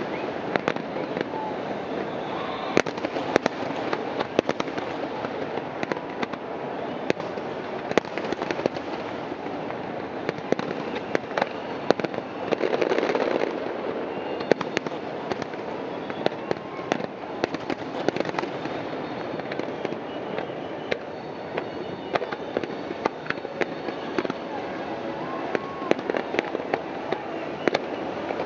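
Fireworks going off without pause: many sharp bangs close together over a dense, steady noisy wash, with a louder stretch about twelve seconds in.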